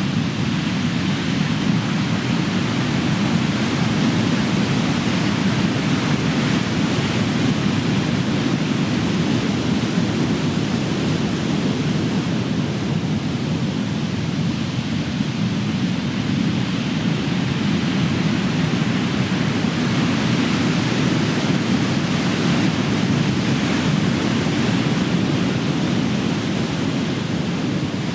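Big ocean waves breaking on the shore: a continuous rush of surf that swells and eases slowly.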